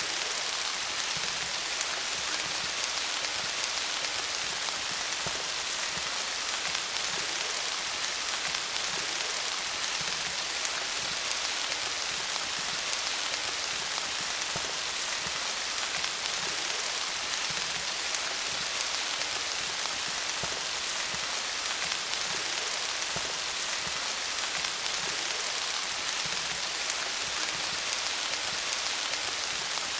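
Steady rain falling on leaves: a continuous even hiss dotted with countless small drop patters.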